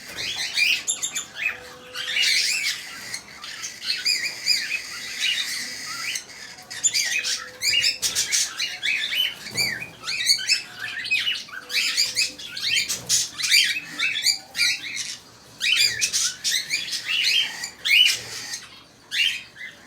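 Small pet parrots chirping and squawking in a dense, continuous chatter of quick high calls, with a few brief lulls.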